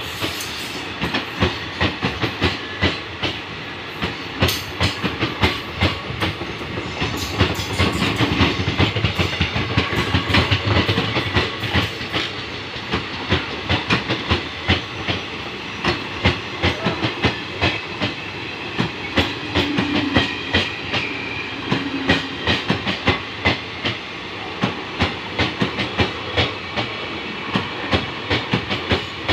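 Indian Railways passenger coaches rolling past close by, their wheels clattering over the rail joints in a steady, repeating clickety-clack.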